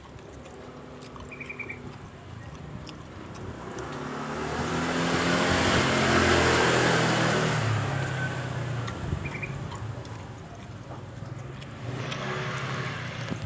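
A motor vehicle passing by: engine and tyre noise builds over a few seconds to a peak, then fades away, with a second, fainter vehicle rising near the end. Short bird chirps come twice.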